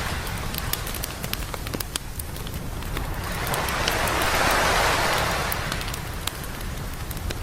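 Campfire crackling with sharp pops throughout, while a wave breaks and washes up the beach, swelling in the middle and fading again.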